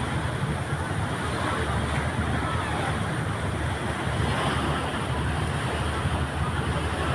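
Passenger ferry underway: a steady low engine rumble under a constant wash of water and wind noise.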